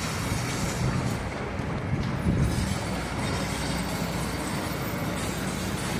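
Excavator running steadily: a continuous low rumble with faint high-pitched squeaks over it.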